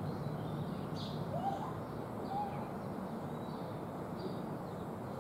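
Loaded coal train's hopper cars rolling steadily on the rails, a constant rumble. Birds chirp over it, with two short rising calls in the first half.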